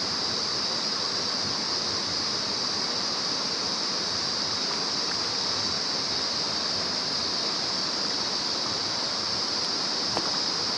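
Mountain stream water rushing over rocks in a steady, even hiss with a strong high-pitched band and no change throughout.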